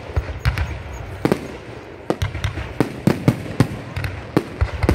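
Fireworks display: aerial shells bursting in a rapid, irregular string of a dozen or so sharp bangs.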